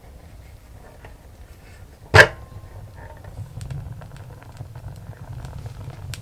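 Firewood fire crackling with faint scattered ticks, and one loud sharp pop from the burning wood about two seconds in.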